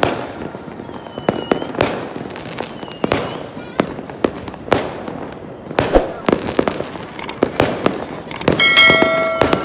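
Fireworks going off in quick irregular succession, sharp bangs of varying loudness, several a second, each trailing off in an echo. About a second before the end a brief steady multi-pitched tone sounds over them.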